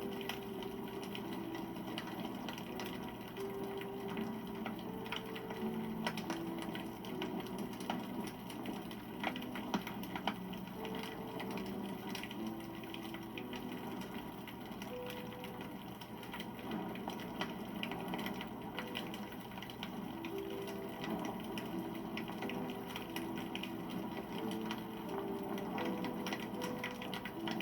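Wood campfire burning with steady, irregular crackling and small pops.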